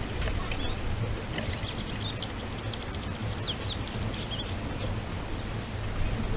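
A small bird singing a rapid, high twittering phrase of many quick notes for about three seconds, over a steady low rumble.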